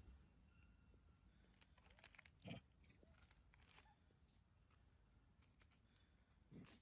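Near silence, with faint scattered clicks and taps; the loudest falls about two and a half seconds in, and another comes near the end.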